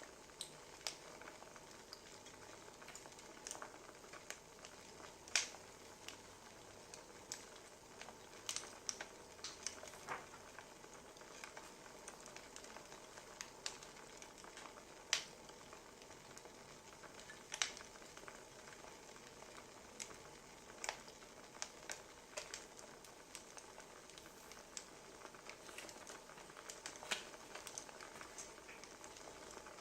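Wood fire crackling: a faint steady hiss with irregular sharp pops and snaps, several of them louder than the rest.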